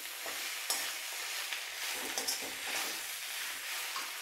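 Chopped radish and radish greens frying in mustard oil in a metal kadhai, sizzling steadily while a slotted metal spatula stirs and scrapes through them against the pan. A few sharper scrapes stand out, about a second in and twice just past two seconds.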